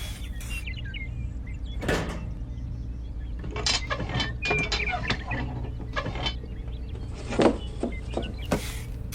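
Small electric motor of a DIY model mini tractor running with a steady low hum, with scattered clicks and knocks from its moving parts: one about two seconds in, a quick run of them around the middle, and two more near the end.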